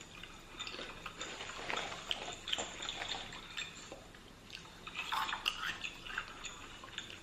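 Close-miked mukbang eating sounds: chewing and crunching fried shrimp, with a steady scatter of small crackles and wet mouth clicks.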